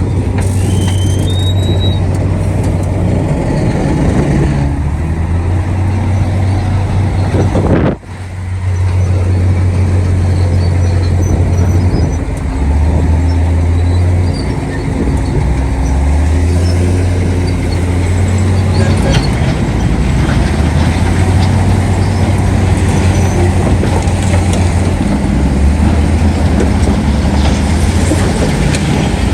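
Heavy diesel construction machinery running with a deep, steady engine rumble. The sound cuts out for an instant about eight seconds in.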